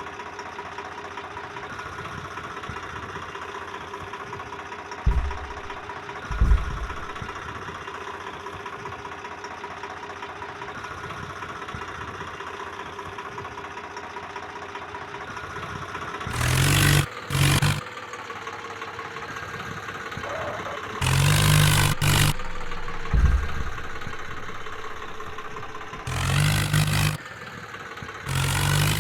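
Tractor engine running steadily, with two short thumps early on and several louder surges of about a second each in the second half.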